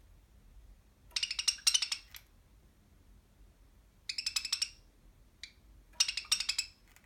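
Budgerigar giving three bursts of rapid, buzzy chattering calls and one short chirp between them.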